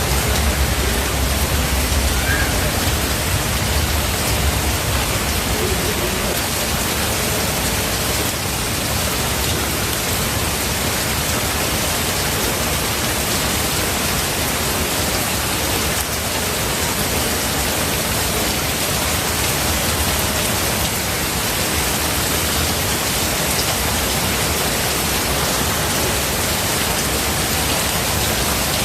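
Steady heavy rain, a dense, even hiss with no breaks, with a low rumble underneath during the first few seconds.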